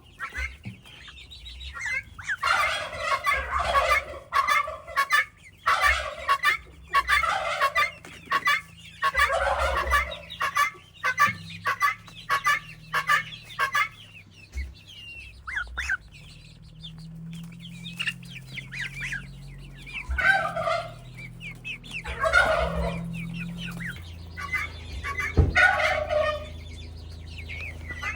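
Domestic poultry calling and clucking. The calls come thick and overlapping for the first several seconds, then thin out to scattered calls.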